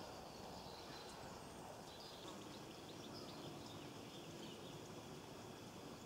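Quiet outdoor background noise, with faint, high, short twittering calls of small birds, most of them in the first few seconds.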